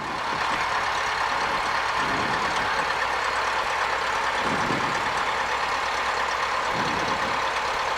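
Cessna 172's engine running steadily at taxi power, heard inside the cabin as an even drone.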